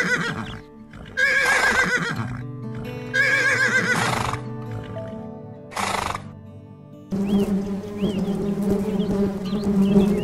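A horse whinnies three times in quick succession, each neigh about a second long with a shaky, quavering pitch, then gives a shorter call a couple of seconds later. From about seven seconds in, a steady low buzz of honeybees massed on a hive takes over.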